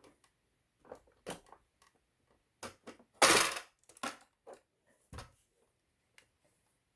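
Hands working the cable connectors and plastic parts inside a sewing machine: scattered small clicks and knocks, with one louder scrape about half a second long a little past the middle.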